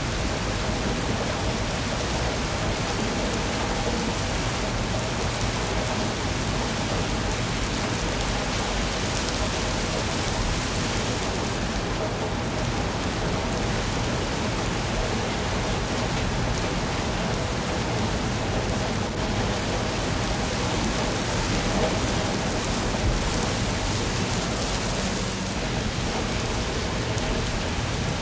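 Steady rain falling and pattering on surfaces, an even hiss of drops without letup.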